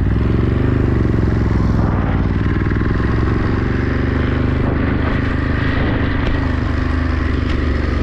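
Ducati Monster 937's L-twin engine running at low revs, with a brief rise in revs about half a second in before settling back.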